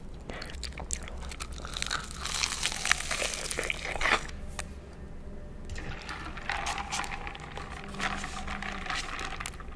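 Close-miked crunching and wet, sticky chewing as sauce-coated McDonald's Spicy Chicken McNuggets are bitten. The crackly crunching is densest in the first four seconds, then eases off before more wet mouth sounds.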